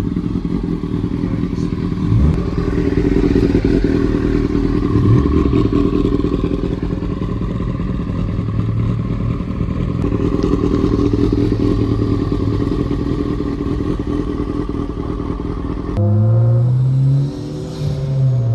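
Car engines and exhausts rumbling as cars pull out of a car meet, a dense, loud low drone. Near the end the sound changes abruptly to a single engine note that rises and falls, as with revving.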